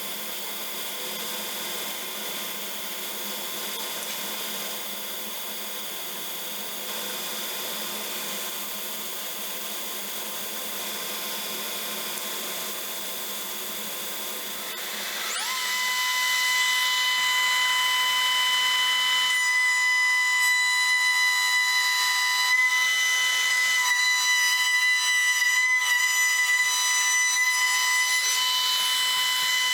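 Electric power tool motor running steadily, then about halfway through it speeds up with a rising pitch and settles into a louder, higher whine.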